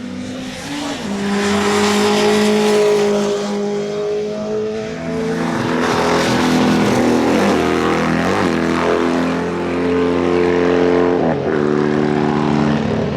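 Motorcycle engines running hard on the circuit, loud throughout. About halfway through, the engine note drops sharply several times as the bikes change up through the gears.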